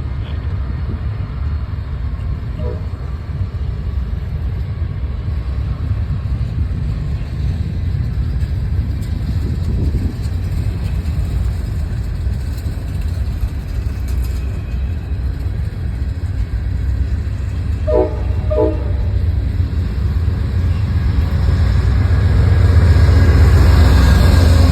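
A train approaching: a steady low rumble that grows louder near the end, with two short tones about three-quarters of the way through.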